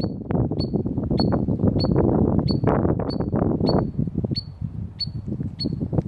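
A small shorebird peeping: a steady series of short, high single notes, roughly three every two seconds, over a low, uneven rushing noise.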